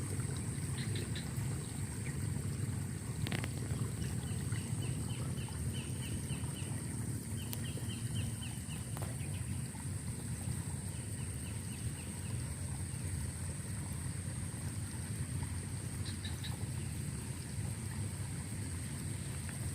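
Small birds singing outdoors in quick trills of repeated short notes, three runs in the first two-thirds and a lone chirp near the end. Behind them run a steady low rumble and a steady high thin whine.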